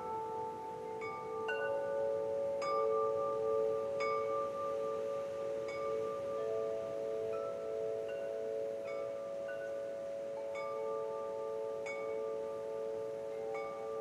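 Wind chimes ringing, struck irregularly every second or two, each note ringing on long and overlapping the others into a sustained chord.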